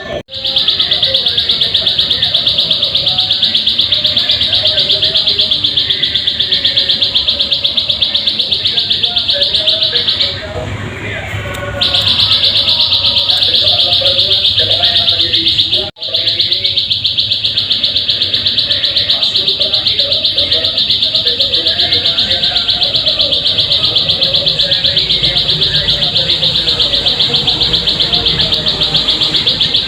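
Ciblek sawah, a small prinia, singing a rapid, continuous high-pitched trill. The song stops for about a second and a half roughly ten seconds in, then breaks off for an instant with a sudden cut a few seconds later.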